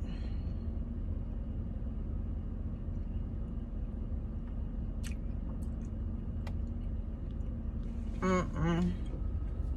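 Steady low rumble of an idling car, heard from inside the cabin, with a few faint clicks.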